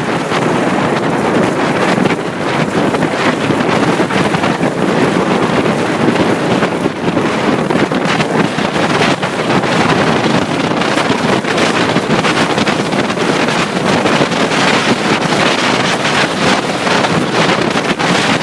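Steady wind rushing over the microphone of a moving motorcycle, with road noise underneath.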